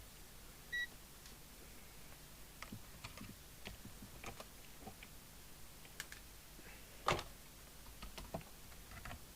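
Scattered small clicks and taps of handling test equipment on a bench while a power supply's voltage is checked, with a short electronic beep about a second in and a louder click about seven seconds in.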